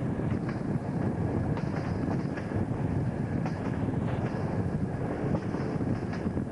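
Locomotive-hauled passenger train running at speed on a curve, heard from an open carriage window: a steady rumble of wheels on the rails, wind on the microphone, and scattered faint clicks.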